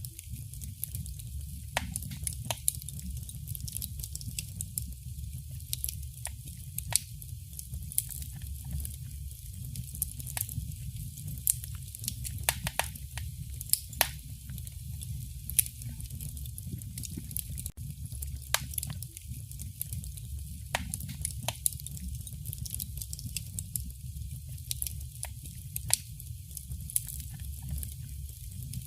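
Wood fire in a fireplace crackling: irregular sharp pops and snaps, several a second at times, over a steady low rumble.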